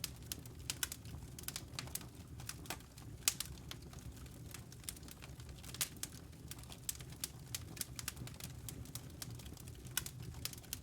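Wood fire crackling in a fireplace: irregular sharp pops and snaps, several a second, over the low steady rumble of the flames.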